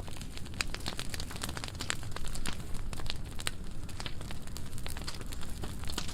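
Burn pile of dry pruning wood burning, with dense, irregular crackles and pops over a steady low rumble.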